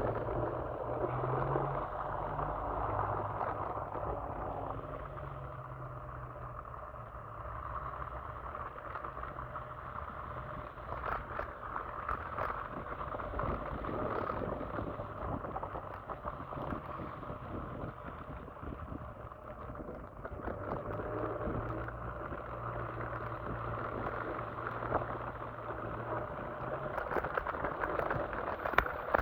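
Electric scooter ride: a steady rushing of tyre and wind noise with a low motor hum that comes and goes.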